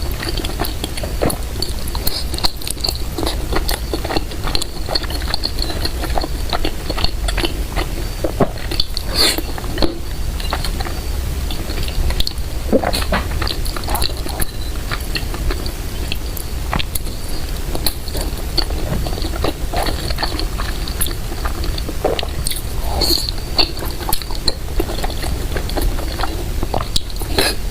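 Close-miked chewing and biting of food, with many small irregular wet mouth clicks and smacks, over a steady low hum.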